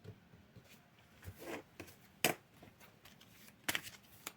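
Tarot cards being handled: a few soft clicks and rustles of cards, with one sharper snap about two seconds in and a quick cluster near the end.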